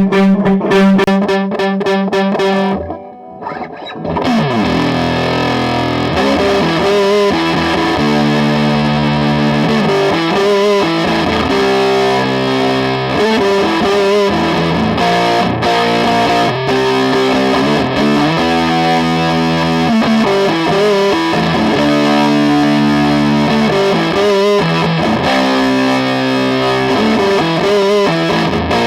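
Electric guitar played through a distortion pedal at its highest-gain setting. A held chord rings out, cuts off about three seconds in, and then a riff of changing distorted chords follows.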